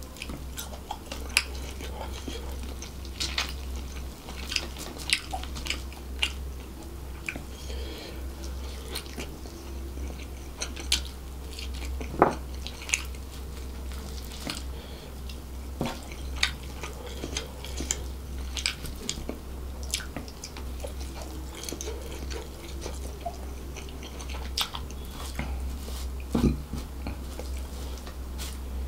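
Close-miked chewing and wet mouth sounds of someone eating fried rice and chicken by hand, with many short sharp smacks and clicks, a few louder ones, over a steady low hum.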